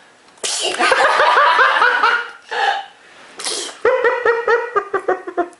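A small child laughing in two runs of quick, high-pitched bursts of laughter, with a short hissing burst between them.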